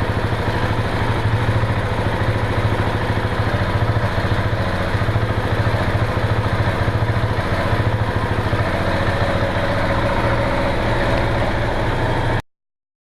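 KTM 690 single-cylinder engine idling steadily through its exhaust, a low, even thumping. The sound cuts off abruptly near the end.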